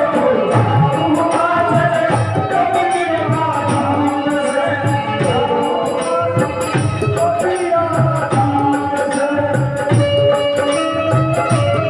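Instrumental passage of a live devotional bhajan: a melody instrument plays sustained notes over a steady hand-drum rhythm, with crisp repeated ticks from light percussion.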